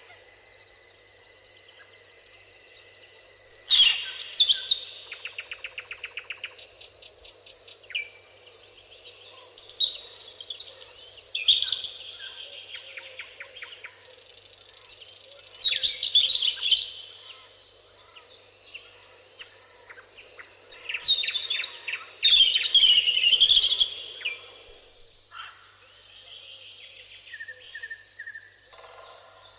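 Several wild birds singing and chirping, with rapid trills and whistles coming in bursts, over a steady thin high tone.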